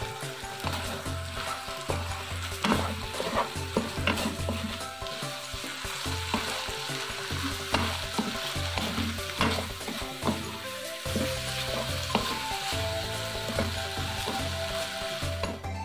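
Diced chicken frying with a steady sizzle in a nonstick pan, stirred and scraped with a spatula that clicks against the pan many times.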